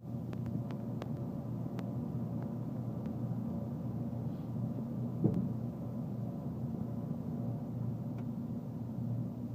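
Steady low rumble and hum inside a JR Kyushu 787 series electric train car as it begins to pull away from the platform. A few faint clicks and one short thump come about five seconds in.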